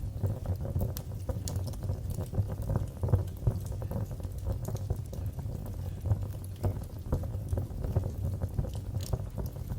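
Wood fire burning in a fireplace: a low steady rumble of flame with frequent small crackles and pops.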